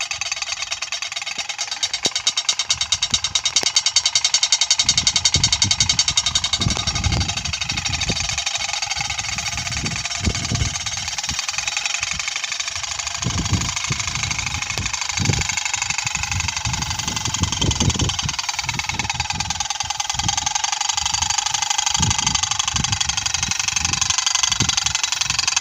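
Wind-driven propeller bird scarer spinning, making a fast, even rattling whir. Gusts of wind buffet the microphone with irregular low thumps.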